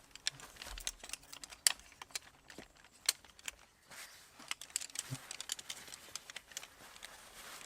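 Wood campfire crackling: irregular sharp pops and snaps, several to a second.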